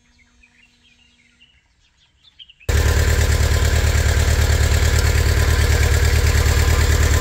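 A few faint bird chirps, then about two and a half seconds in a mini loader's engine cuts in abruptly, running loud and steady with an even pulsing beat. It is a test run after a water pump replacement, to find where the engine is leaking oil.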